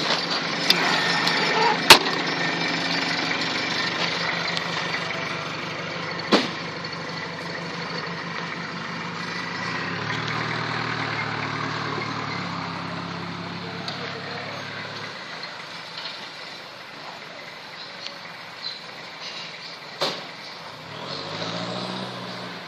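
A vehicle engine idling with a low, even hum that stops about fifteen seconds in. Near the end an engine speeds up briefly. A few sharp knocks are heard along the way.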